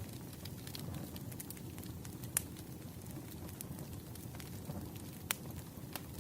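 Wood fire crackling: scattered sharp pops and snaps over a low steady rumble, with two louder pops, one about two and a half seconds in and one a little after five seconds.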